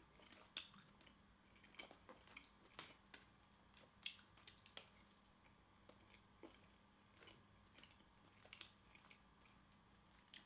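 Faint chewing of a hot chicken tender dipped in ranch: irregular soft crunches and wet mouth clicks, scattered through the whole stretch.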